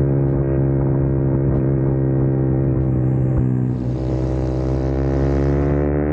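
Small motorcycle engine running at a steady speed. About four seconds in it dips briefly, then its pitch rises steadily as it accelerates.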